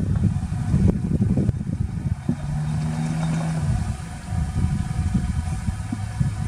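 Diesel engines of heavy earthmoving machinery running with a low, uneven rumble; a little over two seconds in, a steady engine tone holds for about a second and a half before dropping back.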